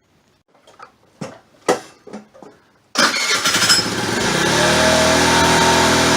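A few light clicks and knocks, then about halfway through a small scooter engine starts suddenly and settles into a steady idle.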